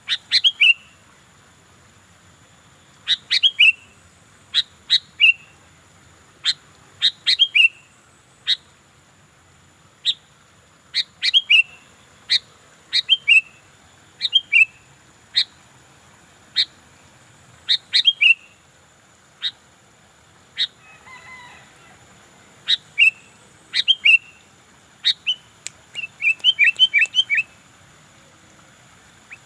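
Sooty-headed bulbul (kutilang) calling busily: short, sharp notes that drop in pitch, given singly or in quick twos and threes, with a fast run of notes near the end.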